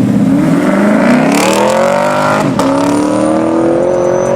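A car accelerating hard at full throttle. The engine note climbs, drops sharply with an upshift about two and a half seconds in, then climbs again in the next gear.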